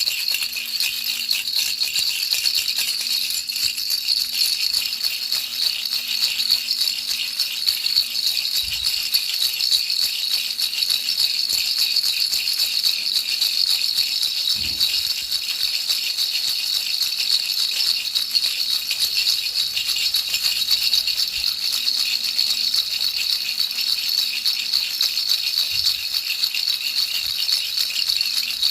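Baby rattle shaken continuously and fast, an even high rattling with no pauses, played as soothing noise for a baby's sleep.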